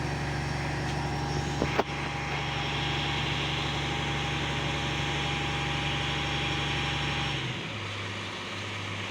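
Diesel engine of a digging and demolition machine running steadily, with one sharp knock about two seconds in. Near the end the engine note changes and gets quieter.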